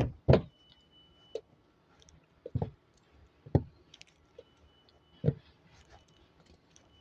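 Four sharp knocks, irregularly spaced, with a faint thin high steady tone in short stretches between them.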